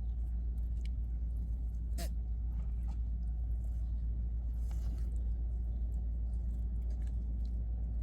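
A steady low rumble, with a few light clicks and one short, high call about two seconds in.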